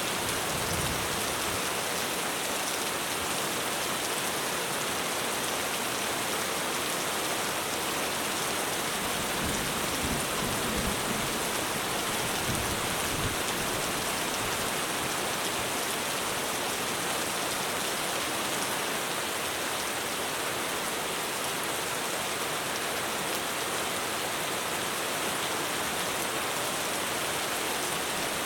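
Heavy rain falling steadily on a roof, a dense even hiss of drops.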